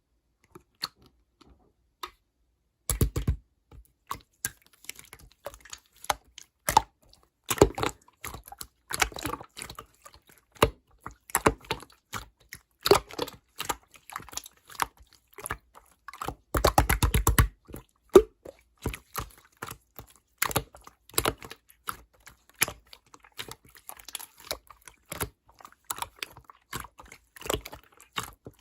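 Bouncy slime being played with by hand: pressed, poked and stretched, giving sticky clicks and pops, with a quick run of crackling pops about three seconds in and a longer one around seventeen seconds.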